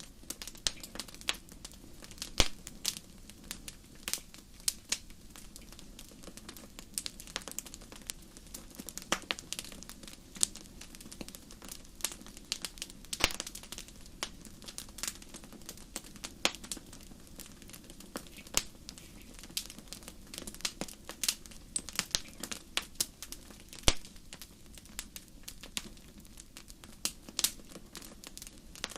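Wood fire burning in a fireplace, crackling steadily with irregular sharp pops and snaps over a soft hiss; two louder pops stand out, one about two and a half seconds in and one near the end.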